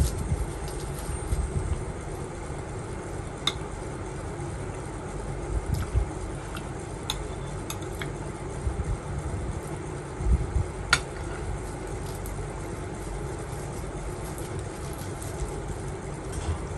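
A few light clinks of tableware, chopsticks or dishes, while eating, over a steady low background hum, with some soft low thumps around the middle.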